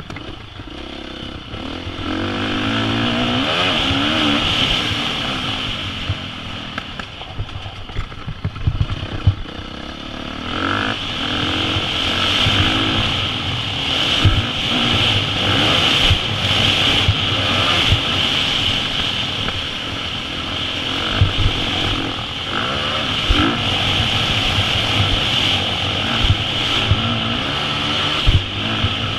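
KTM 350 SX-F four-stroke single-cylinder dirt bike engine revving up and down again and again under hard riding, with scattered low thumps.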